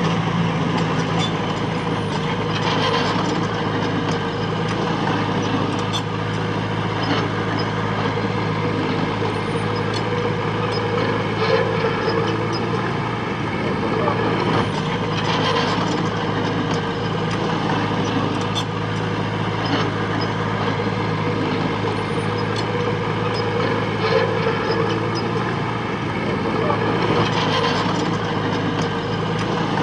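Diesel engine of heavy earthmoving machinery running steadily. Its note swells every few seconds as it works, with scattered metallic clinks and clanks.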